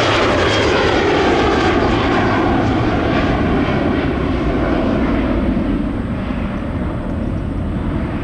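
Jet airliner passing close, its engines loud with a pitch that falls as it goes by, then fading over the last few seconds.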